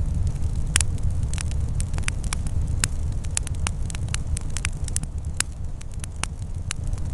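Wood fire crackling, with sharp pops about three times a second over a steady low rumble.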